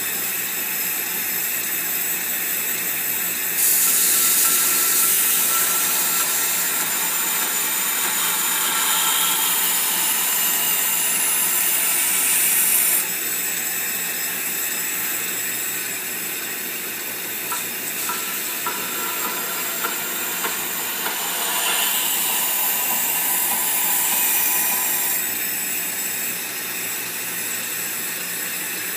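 Powered knife grinder running steadily with a motor whine, and a louder abrasive hiss while the blade is pressed to the abrasive, from about 3.5 s to 13 s in and again about 21 to 25 s in, grinding the edge toward a wire edge.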